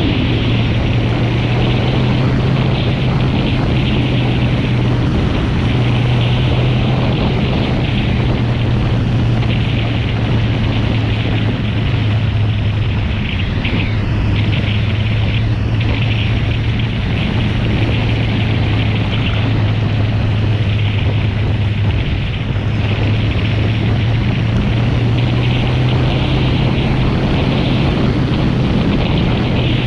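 Kawasaki Z750 motorcycle engine running steadily at cruising speed, a constant low drone with a rush of wind noise over it.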